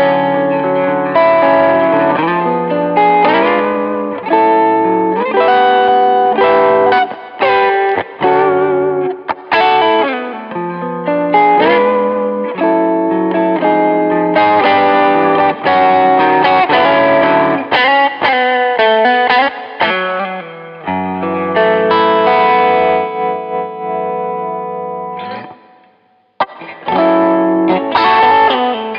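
PRS Modern Eagle III 25th Anniversary electric guitar played through effects: lead lines with string bends, then a chord held and fading out. The sound breaks off briefly near the end before the playing starts again.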